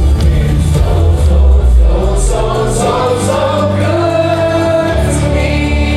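Gospel worship music: a group of voices singing together over a steady band accompaniment with sustained bass notes.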